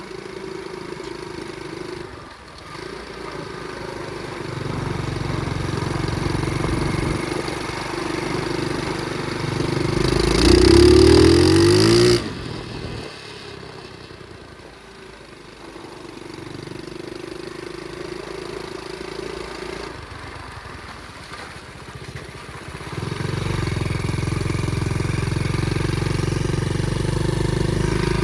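Flywing pit bike's small engine running while being ridden. About ten seconds in it revs up sharply to its loudest, then drops off suddenly as the throttle closes. It runs quieter for a while, then picks up to a steady, louder pull again about two-thirds of the way through.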